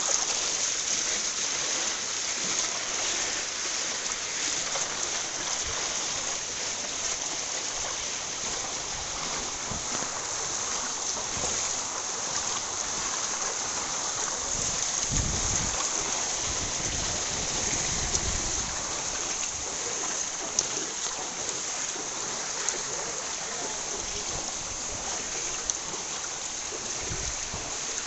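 Heavy rain falling in a steady hiss, with a brief low rumble about halfway through.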